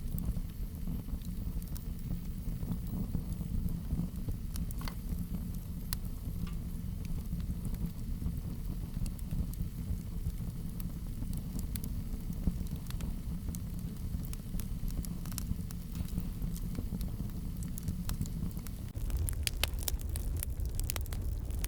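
Wood fire crackling in a fireplace: a steady low rumble of flames with scattered sharp pops and snaps, which grow busier and louder near the end.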